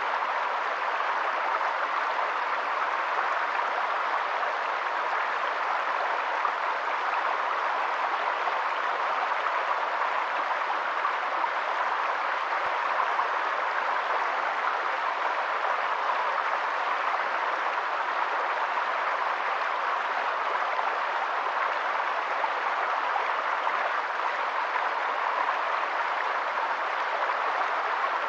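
Steady, even hiss of water, unchanging in level, with no tones or distinct events in it.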